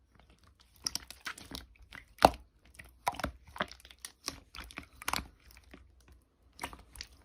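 Slime being squeezed and worked by hand, giving irregular crackling, popping and squishing sounds that start about a second in, with one louder pop a little after two seconds.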